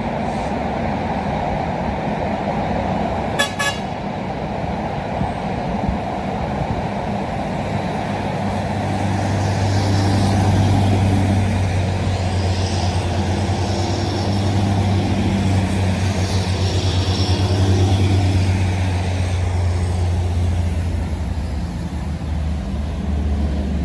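Heavy truck traffic on a road: a steady rumble of engines and tyres, a short horn toot about three and a half seconds in, then from about eight seconds a loaded truck's engine drones low and loud as it goes by, easing off near the end.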